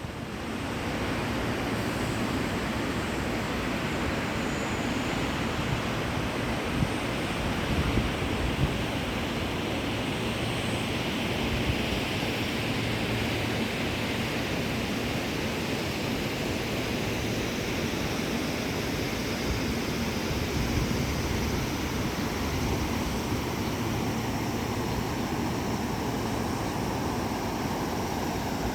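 Floodwater of a swollen river rushing past: a steady, even noise of fast turbulent water, with a few brief knocks about eight seconds in.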